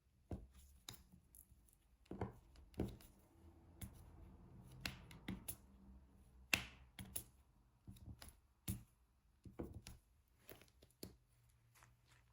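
Faint, irregular sharp taps and clicks of a diamond painting pen pressing small resin drills one by one onto the adhesive canvas.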